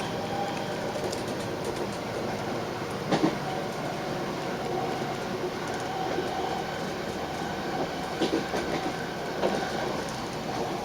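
Passenger train running along the track, heard from inside the carriage: a steady rumble with a faint steady whine, wheel clatter, and a few sharp knocks, the loudest a quick double knock about three seconds in.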